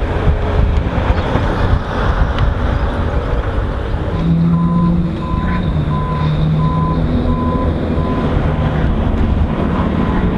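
Ferrari 599 GTO's V12 engine running at low, slightly varying revs with a steady rumble. From about four seconds in, a short high beep repeats about every 0.7 seconds, like a reversing alarm, and fades later.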